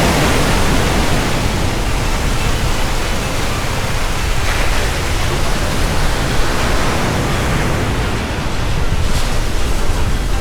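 Ocean surf breaking and washing in steadily, mixed with wind rumbling on the microphone.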